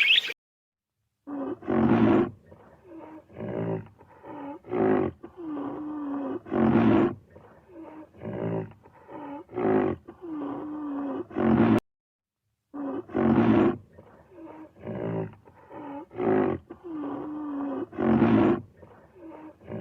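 A large animal's loud, deep calls, repeated about once a second in a long series. The series seems to play twice, with a brief silence near the middle.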